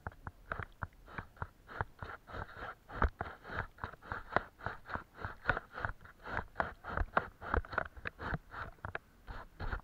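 Quick, repeated scratchy strokes of a paintbrush on paper, about three a second, uneven in strength.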